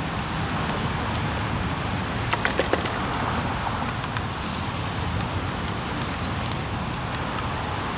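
Steady rain falling, with scattered sharp drop ticks, a few louder ones about two and a half seconds in, over a low steady hum.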